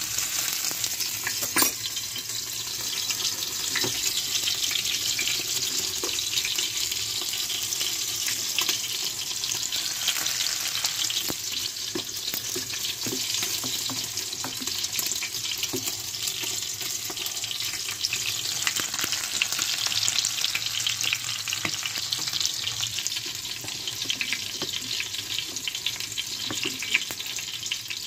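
Egg-coated chicken pieces frying in hot oil: a steady sizzling hiss thick with small crackling pops, with one louder click about a second and a half in.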